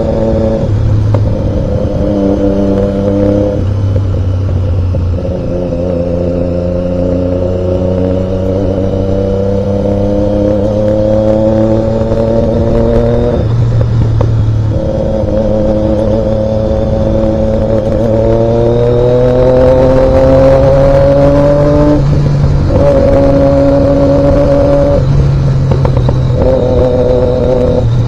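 Triumph Daytona 675's inline three-cylinder engine pulling on the move, its note rising slowly in pitch and breaking off for a moment at each of several gear changes, over steady wind and road noise.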